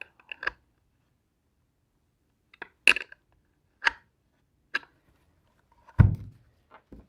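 A handful of sharp clinks and taps as tools or parts are handled on a workbench, spaced about a second apart, then a heavier thump about six seconds in.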